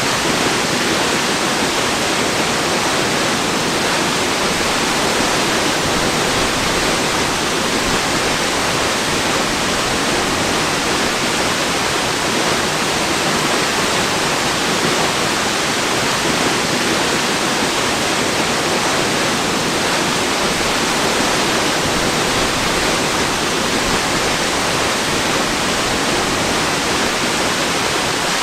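Waterfall: a steady, even rush of falling water, unchanging throughout, with more hiss than rumble.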